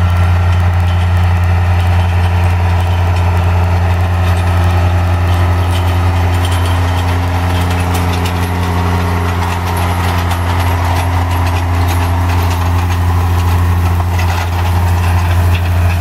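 An engine running steadily at a constant speed, a low, even hum that does not rise or fall.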